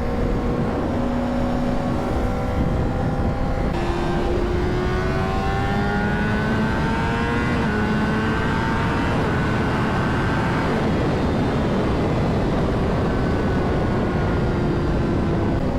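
Honda CBR600RR inline-four running at speed under heavy wind rush. The engine note climbs from about four seconds in, dips briefly at an upshift, climbs again, then settles to a steady cruise.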